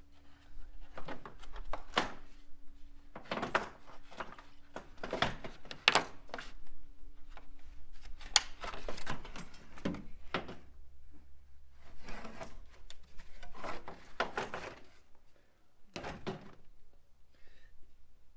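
Irregular knocks, thunks and scrapes of tools and engine parts being handled during an engine teardown, over a steady low hum.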